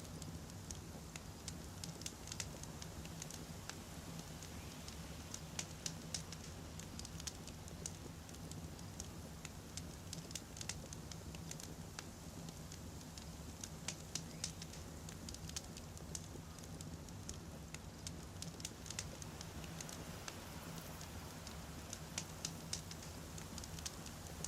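Wood campfire crackling and popping: irregular sharp snaps over a steady low rumble of the burning logs.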